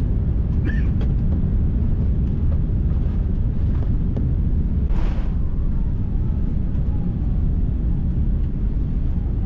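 Airliner cabin noise aboard an Airbus A380: a loud, steady low rumble of the engines and airflow, with a brief hiss about halfway through.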